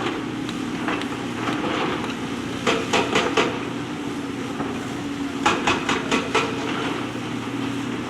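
JCB backhoe loader's diesel engine running steadily while working in a riverbed, with two quick runs of sharp knocks, about four and then about five, as stones strike the steel bucket.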